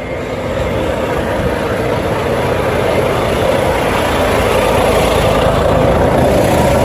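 Truck's diesel engine running steadily while the truck is backed up, growing slowly louder.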